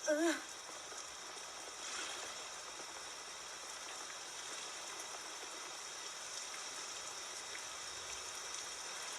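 Steady rain falling, an even hiss of rain noise.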